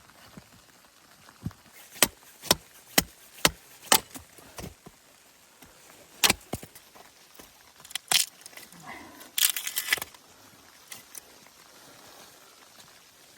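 A run of sharp knocks, about two a second for a couple of seconds, then a few scattered knocks and a brief rattling clatter a little before the end.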